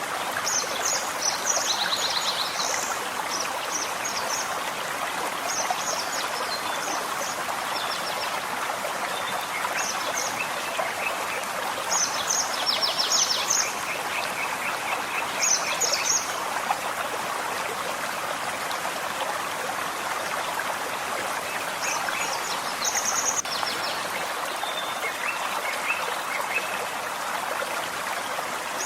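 Forest stream flowing steadily, with songbirds giving short, high chirping and trilled phrases on and off over the water, most of them in the first half and again near the end.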